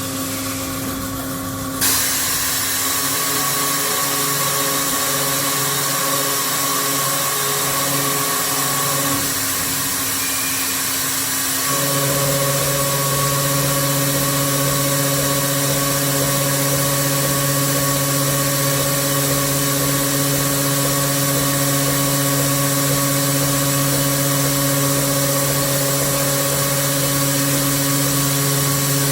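Bestech BP-200 high-speed circular saw pipe cutting machine running, a steady mechanical hum under a loud, even hiss that starts about two seconds in. About twelve seconds in, the hum changes to a stronger, deeper steady tone and holds there.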